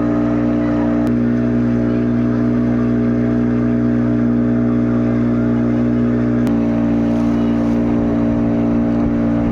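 Motorboat engine running at a steady speed, with a slight shift in its pitch about six and a half seconds in.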